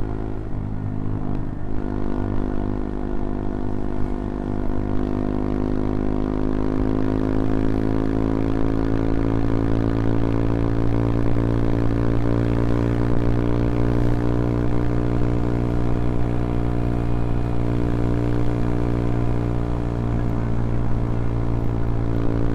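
CFMoto Papio XO-1 minibike's single-cylinder engine running under load on the road. Its note wavers for the first couple of seconds, then climbs slowly over the next several seconds and holds steady.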